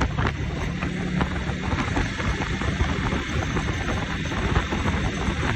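Motorcycle engine running steadily on the move, with wind noise on the microphone and scattered small knocks.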